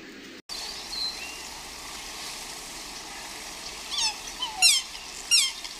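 Faint steady hiss, then about four seconds in a run of four loud, high-pitched chirps from a small bird or animal, each falling sharply in pitch.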